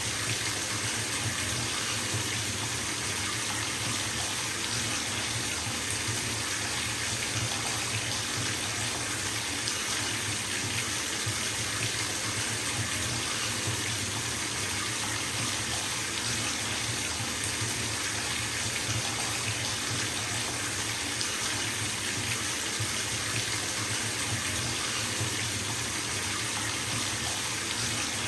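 Bathtub tap running steadily into a filling tub, an even rushing splash of water with no breaks.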